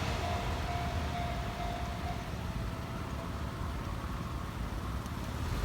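A Kintetsu train receding from a level crossing: a thin steady whine fades away in the first two seconds, leaving a low steady rumble.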